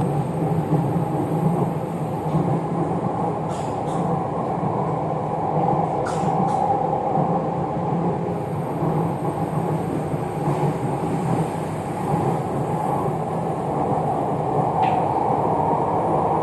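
Jakarta MRT electric train running between stations, heard inside the passenger car: a steady rumble of wheels and motors, with a few light clicks.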